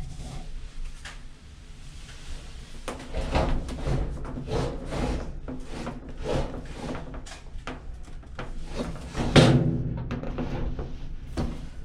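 Clothes dryer being shuffled back toward the wall, its flexible vent tube compressing behind it: a run of scraping, rustling and knocking, with one louder thump about nine seconds in.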